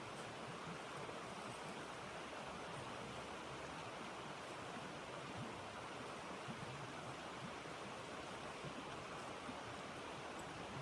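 Steady rushing noise of blizzard wind, even and unbroken, with a few faint high ticks.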